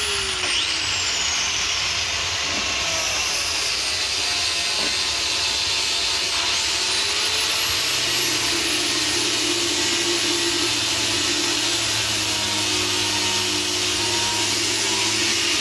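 An electric power tool's motor running steadily with a loud whir and hiss, its pitch drifting a little up and down as it works.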